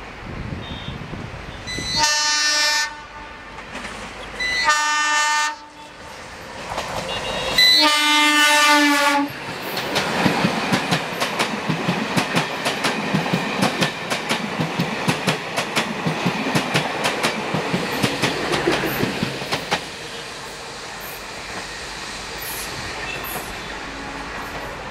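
Indian Railways mainline DMU sounding its musical multi-tone horn in three loud blasts, the last and longest ending about nine seconds in. The train then passes close by with a rapid, rhythmic clickety-clack of wheels over rail joints, fading away after about twenty seconds.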